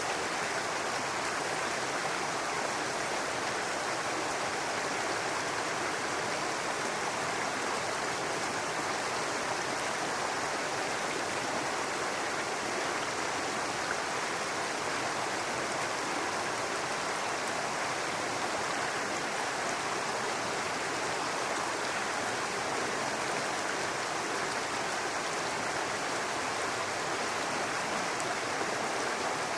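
Small brook babbling steadily over rocks, a constant rush of running water.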